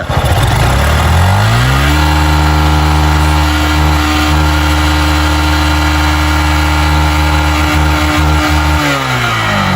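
Motorcycle engine revved up from idle over about two seconds, held at a steady raised speed, then let back down near the end, during a test of whether the charging system charges the battery.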